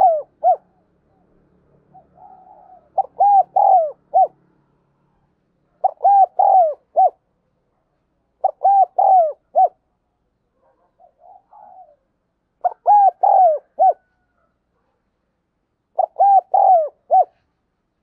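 Spotted dove cooing: a phrase of about four coos, each dropping in pitch at its end, repeated five times at intervals of three to four seconds.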